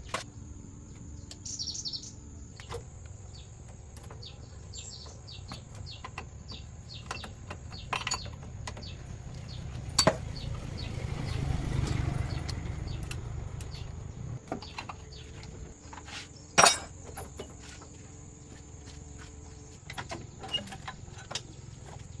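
Scattered light metallic clicks and knocks of parts and tools being handled, with two sharper knocks about ten and sixteen seconds in. A low rumble swells and fades in the middle, and a few bird chirps sound early on.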